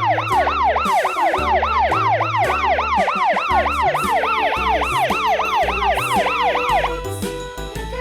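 Emergency-vehicle siren in a fast yelp, rising and falling about three times a second, over background music with a bass line. The siren stops near the end and the music continues.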